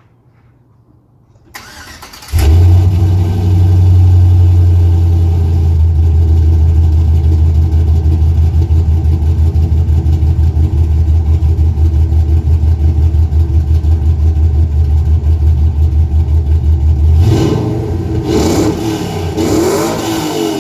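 A 2004 Chevrolet Silverado's engine cranked by the starter for about a second and firing up, then idling loud with a deep, evenly pulsing rumble. Near the end it is revved a few times, pitch rising and falling.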